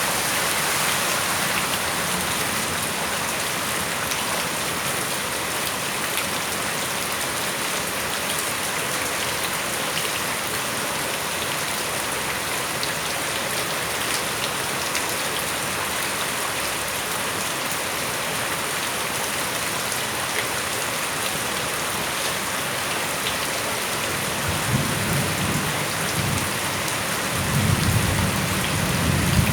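Steady heavy rain falling and pattering on surfaces. Low thunder rumbles twice near the end.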